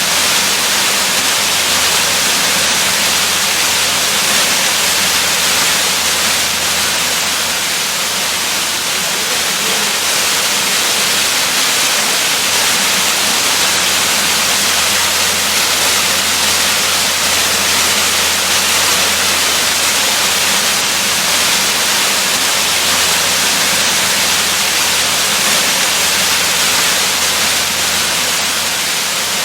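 Waterfall: a steady, loud rush of falling water, an even hiss heavy in the highs.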